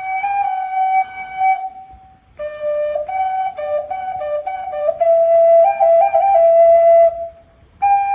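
Prehispanic fire flute (flauta de fuego) playing a slow melody: a long held note that ends about two seconds in, then after a short breath a phrase of quick stepping notes that settles on a long held lower note, and a new phrase beginning just before the end.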